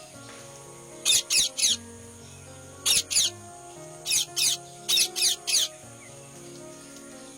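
Parrot giving short, sharp calls in quick runs of two or three, eleven calls in all, over background music with sustained notes.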